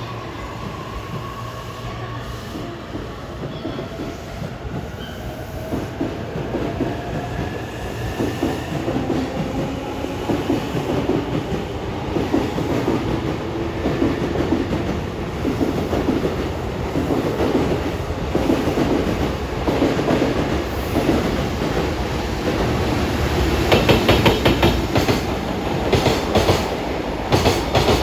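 JR Freight EF210-300 electric locomotive hauling a long train of container wagons past at speed: a whine falls in pitch as it goes by, then the wagons' wheels clack rhythmically over the rail joints, growing louder, with sharp clacks near the end.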